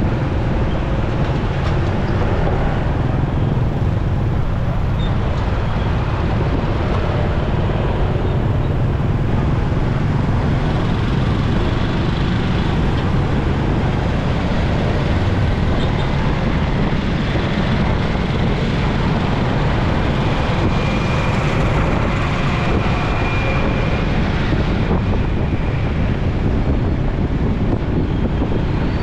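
Steady road noise from riding a motorcycle in city traffic: its engine running with the rumble of surrounding vehicles.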